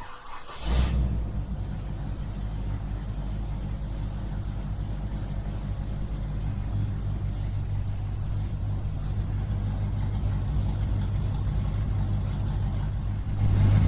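A small motor of the mini DIY tractor or its water pump, running steadily with a low hum after a brief burst of noise about a second in.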